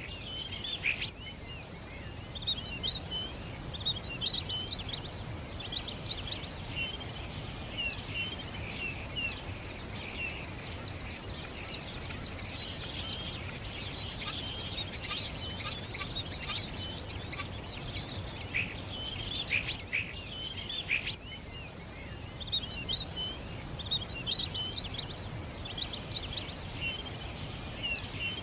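Many small birds chirping and twittering together, a dense chorus of short high chirps that thickens near the middle, over a steady low background hum of noise.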